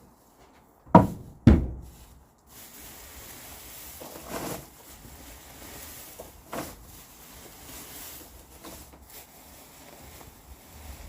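Two loud wooden knocks about half a second apart, then steady low rustling with a few louder scrapes.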